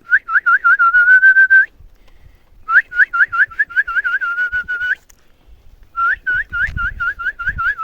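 A person whistling three quick runs of short rising chirps, a whistled call to an animal.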